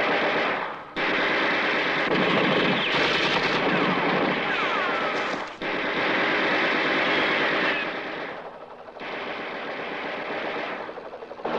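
Sustained machine-gun fire in long bursts, broken by short pauses about one second, five and a half seconds and nine seconds in.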